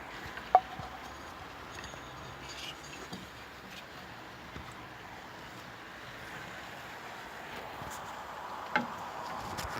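British Seagull 102 4 hp two-stroke outboard motor running steadily at low throttle after a year laid up. There is a sharp knock about half a second in and a smaller one near the end.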